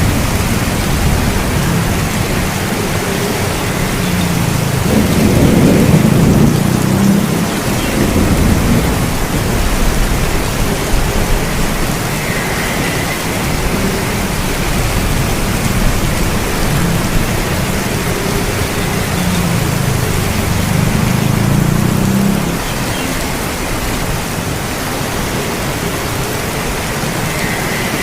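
Steady rain with thunder rumbling twice, a longer, louder rumble about five seconds in and another around twenty seconds in.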